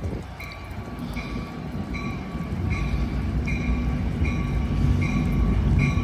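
Amtrak F59PHI diesel locomotive approaching, its engine rumble growing steadily louder from about halfway in. A bell rings in a steady repeating pattern, a little more than once a second.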